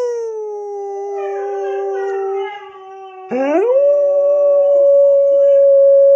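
Dogs howling: a long howl sinks slowly in pitch and fades about two and a half seconds in, with a fainter second howl overlapping it. A little after three seconds a new howl swoops steeply up and holds steady.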